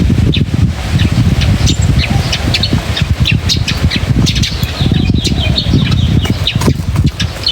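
Birds chirping continuously, many short high calls in quick succession, over a loud steady low rumble.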